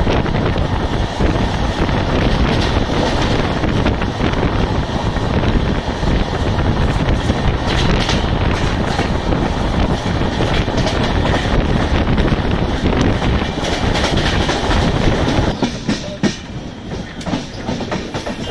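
LHB passenger coach running at speed, heard from the open door: a steady rumble of wheels on rail with clicks over the joints. The noise drops noticeably about fifteen seconds in.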